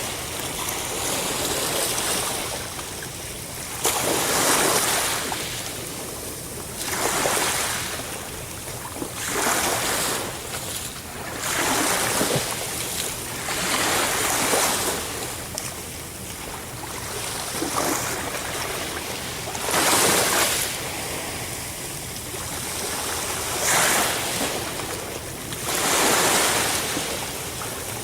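Sea waves breaking and washing on the shore, a surge of surf every two to four seconds, about nine in all.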